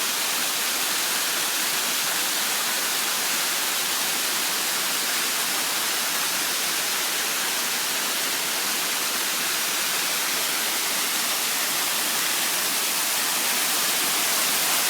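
Waterfall: a steady rushing of falling water, even and unbroken throughout.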